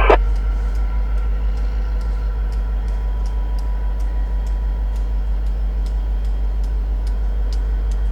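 Diesel locomotive idling with a steady low rumble, under faint regular ticking about twice a second.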